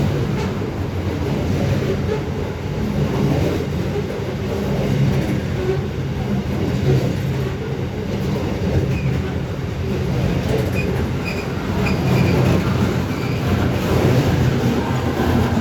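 Qube grain train passing, its diesel locomotives running with a steady low hum and the wagons rolling on the rails, with faint high wheel squeal near the middle.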